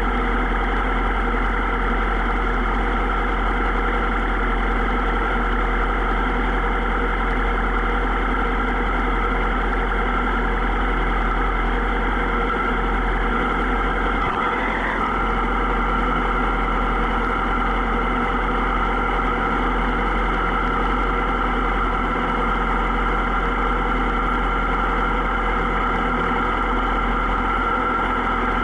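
Superbike engine running at a steady, unchanging pitch, with a brief dip about halfway through.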